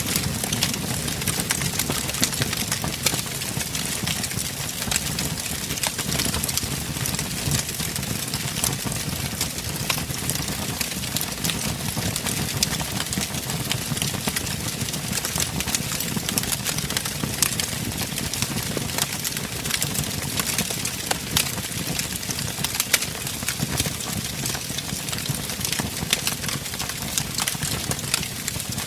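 Fire crackling in a fireplace: frequent, irregular sharp pops and snaps over a steady low rumble of burning flames.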